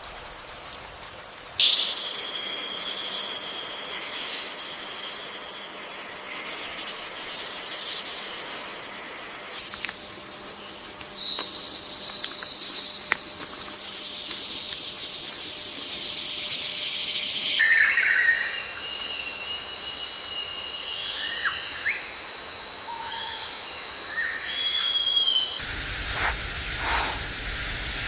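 Tropical forest ambience: steady high-pitched insect trilling, with short bird chirps and calls over it. The mix changes abruptly about a second and a half in, again about two-thirds of the way through, and once more near the end.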